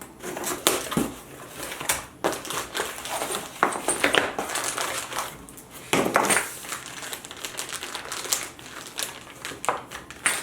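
Packaging and small parts being handled: irregular rustling and crinkling with light clicks and clatters as small accessory boxes are opened and their contents taken out.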